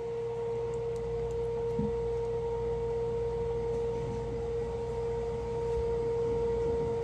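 A steady tone held at one pitch without a break, with a faint hiss beneath it.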